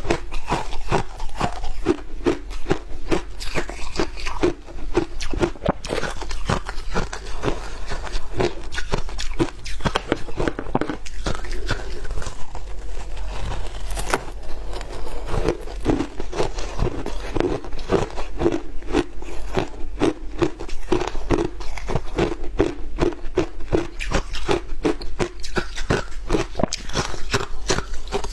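Shaved ice being bitten and chewed close to the microphone: a steady, rapid run of crisp crunches.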